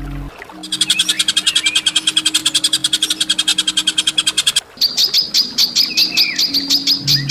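A songbird giving a fast, harsh, buzzy rattle for about four seconds. After a brief break it switches to a rapid series of sharp, clear chip notes.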